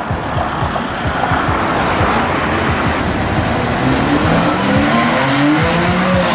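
A car engine pulling hard, its pitch rising steadily from about four seconds in, over loud street noise.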